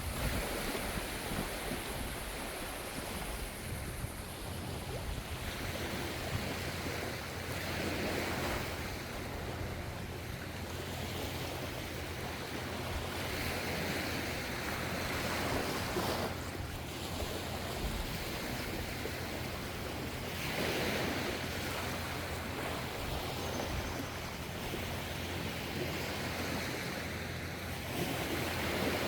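Gentle ocean waves breaking and washing in, the surf swelling several times a few seconds apart over a steady rush of water and a low rumble underneath.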